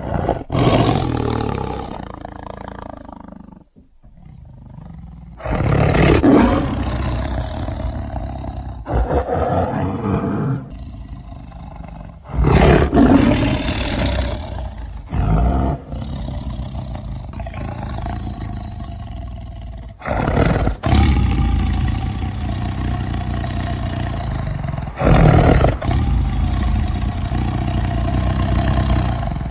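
Tiger roaring again and again, each loud roar starting suddenly, with deep growling between the roars.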